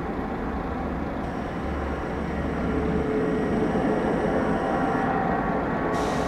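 Boeing 777-300 airliner taxiing, its jet engines at low taxi power giving a steady rumble with a faint whine, a little louder after about two and a half seconds.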